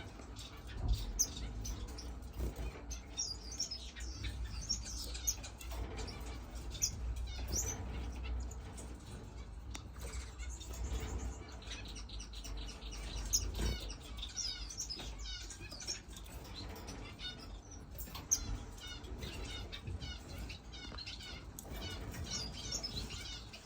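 Small cage finches chirping in short, high calls again and again, with brief wing flutters and clicks among them.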